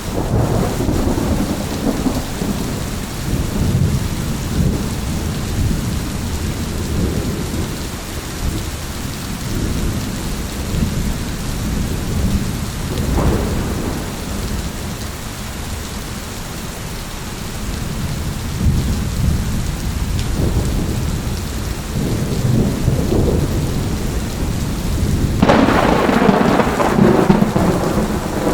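Thunderstorm: steady rain with low, rolling thunder rumbling throughout, and a sharper, louder crack of thunder near the end.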